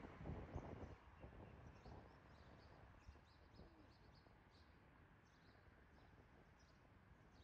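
Near silence with faint twittering of small birds: many short, high chirps. A low background noise fades about a second in.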